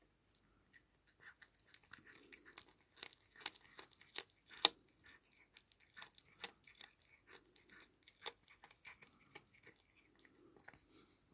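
Cat chewing and crunching on a caught mouse, a run of irregular wet crunches and clicks, several a second, with the loudest crunch about halfway through.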